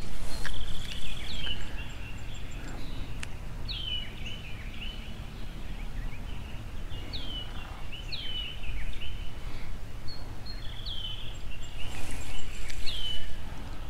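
Small birds calling repeatedly: sharp chirps that slide down in pitch, every two to three seconds, mixed with softer chirps. Under them runs a low steady rumble, with a few sharp clicks in the first few seconds.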